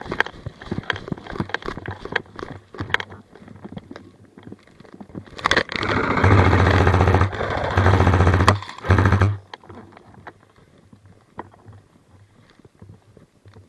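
Airsoft electric gun firing on full auto in three bursts, a long one and two shorter ones about six to nine seconds in, with a rapid motor-driven rattle of shots. Scattered sharp clicks come before and after it.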